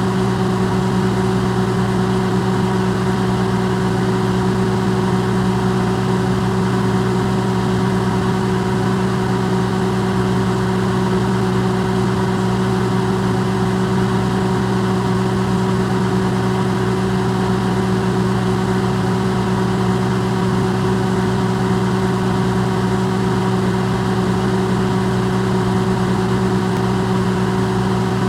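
Electrolux microwave oven running, amplified: a steady, unbroken mains hum with several low tones over an even hiss.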